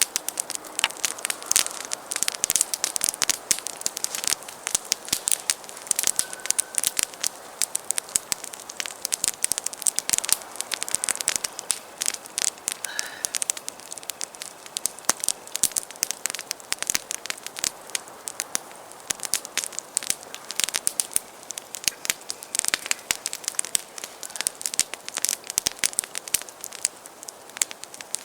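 Wood campfire crackling, with many sharp, irregular pops.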